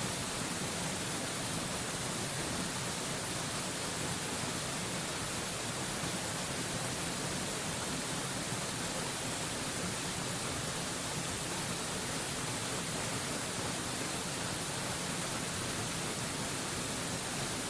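Steady rushing of a waterfall, an even, hiss-like wash of falling water that does not change.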